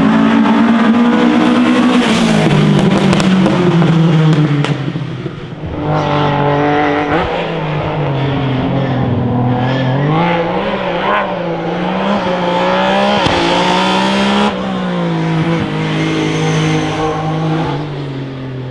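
Classic racing car engines accelerating hard uphill, revving up and dropping in pitch at gear changes, heard across several successive passes or shots.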